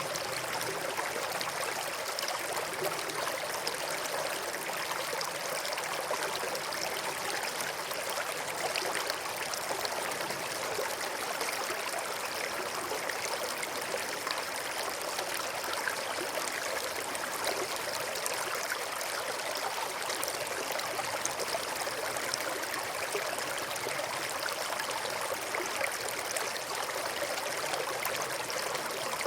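River water flowing steadily over and between rocks, an even rushing babble with no pauses or changes.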